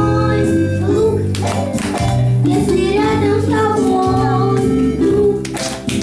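A song: singing over an instrumental accompaniment with a steady, repeating bass line.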